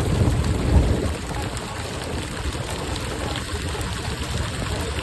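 Steady low rumbling noise aboard a purse seine fishing boat, louder in the first second and then evening out.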